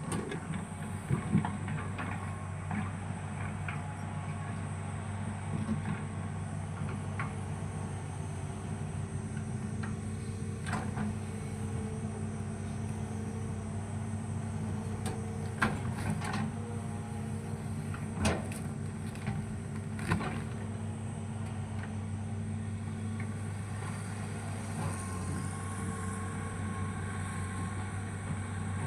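Excavator's diesel engine running steadily with hydraulic whine, broken by several sharp knocks and clanks: a few near the start and a cluster between about ten and twenty seconds in. A higher whine sets in near the end.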